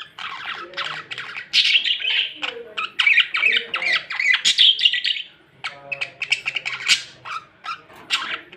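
Pet budgerigar (budgie) chattering and warbling: a fast, busy run of chirps, clicks and squawks, with a brief lull about five and a half seconds in.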